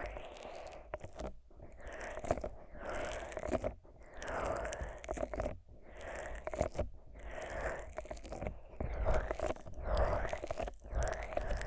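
Fingers rubbing thick, sticky Vaseline over the rubber ears of a 3Dio binaural microphone, giving crackling, smearing strokes about a second long with brief pauses between them.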